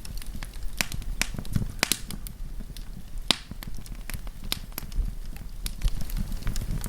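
Wood campfire burning with irregular crackles and pops over a low rumble of flame, one sharper pop about three seconds in.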